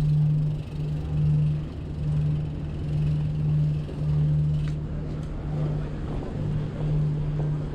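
Moving-bicycle noise from a camera riding along: a steady low hum that keeps cutting in and out, over wind and road rumble.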